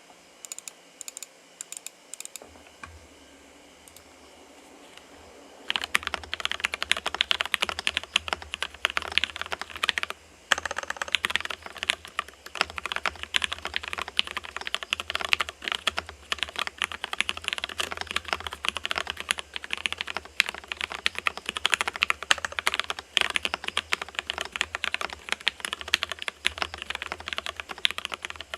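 Typing on an ergo mechanical keyboard with lubed, filmed Gateron Yellow linear switches on an FR4 plate in a stacked acrylic case, with Cherry-profile keycaps. A few scattered key presses come first, then steady fast typing from about six seconds in, with a brief pause near ten seconds.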